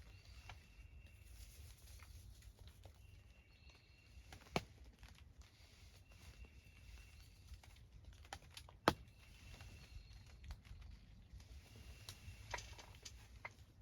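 Faint, irregular ticks and taps of water drops falling on leaves and gear in wet woods, with two sharper taps about four and a half and nine seconds in.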